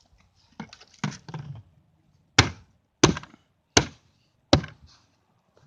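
Four sharp knocks of a hard object being struck, evenly spaced about three-quarters of a second apart, after a moment of softer rustling and handling.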